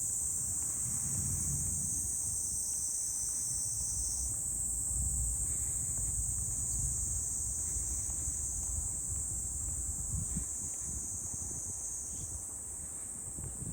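A summer chorus of cicadas buzzing as a steady high-pitched drone that shifts slightly about four seconds in, over a low rumble.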